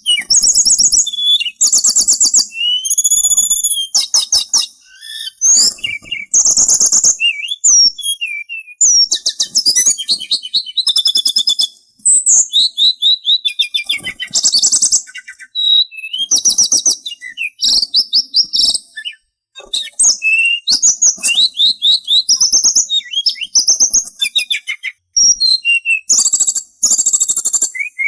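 Sulingan (hill blue flycatcher) singing: a busy run of high, rapid whistled phrases and trills, one after another with only short breaks.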